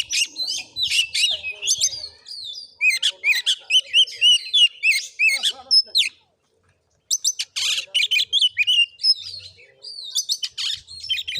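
Oriental magpie-robin (kacer) singing: a fast, varied run of whistles and chirps, broken by about a second of silence just past the middle before the song resumes.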